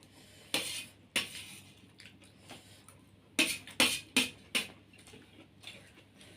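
Cutlery clinking and scraping against a plate during eating, about six short sharp clinks: two near the start, then a quick run of four around the middle.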